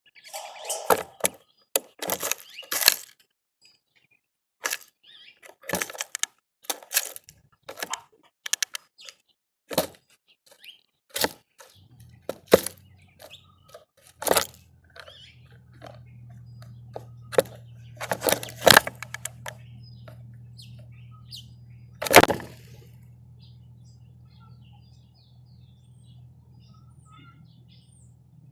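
Birds at a feeder pecking and cracking seed: sharp, irregular cracks and taps in quick runs, with the odd faint chirp. A low steady hum comes in about twelve seconds in.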